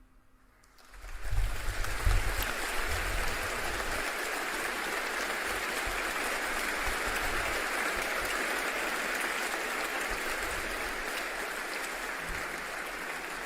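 Concert audience applauding at the end of a live song: the clapping breaks out about a second in and holds steady.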